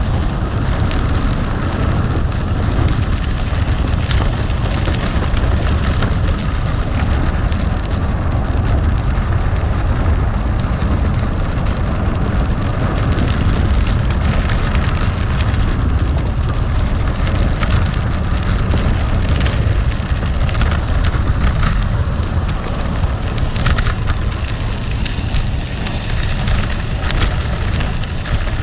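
Gravel bike riding over rough gravel: tyres crunching on loose stones with many sharp ticks and crackles, over a steady low rumble.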